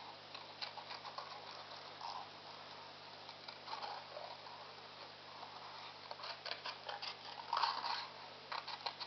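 Scissors snipping through colour paper in short, irregular cuts, with the paper crackling as it is handled. Faint, a little louder near the end.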